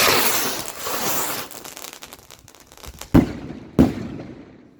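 Firework going off: a loud burst of dense crackling that thins out into scattered crackles, then two sharp bangs a little over half a second apart about three seconds in.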